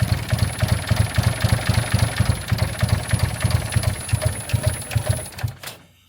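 Nissan RB25DET straight-six being cranked by the starter on its first start attempt after a rebuild, giving a loud uneven chugging of about six pulses a second over a thin high whine. It does not catch and run, and the cranking stops about five and a half seconds in.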